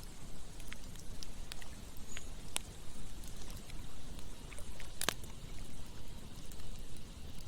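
Campfire crackling with scattered sharp pops, one loud pop about five seconds in, over the steady rush of flowing water.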